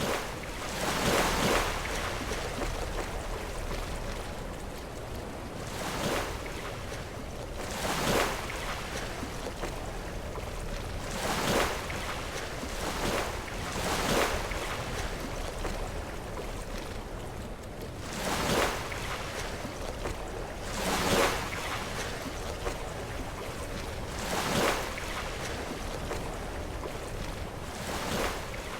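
Sea waves breaking against shoreline rocks, each wave a brief surging crash every few seconds over a steady wash of surf.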